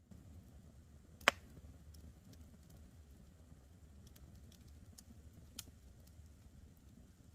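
Wood campfire crackling, with scattered small ticks over a low steady rumble of the flames. A sharp, loud pop comes about a second in, and a smaller one later.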